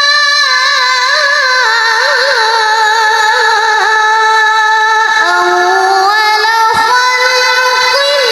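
A child qari reciting the Quran in melodic tilawah style. He holds one long, high, ornamented note on a single vowel, dips lower about five seconds in, and rises again near the end.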